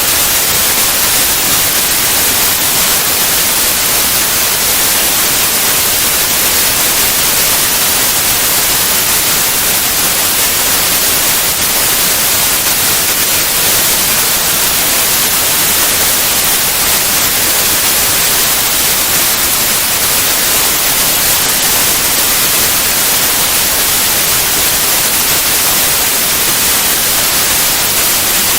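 Continuous white noise: a steady, even hiss, strongest in the high frequencies, with no changes.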